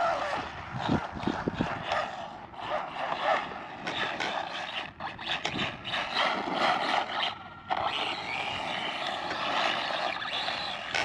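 Brushless motor and drivetrain of an Arrma Mojave Grom BLX mini RC truck whining as it is driven over dirt and grass. The throttle goes on and off, and the sound drops out briefly a few times.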